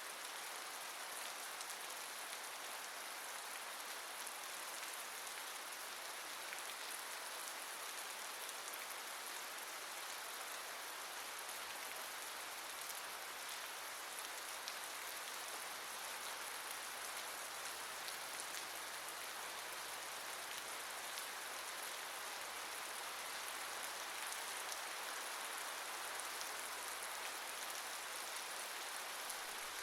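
Steady rain falling, an even hiss of many drops with no distinct strikes.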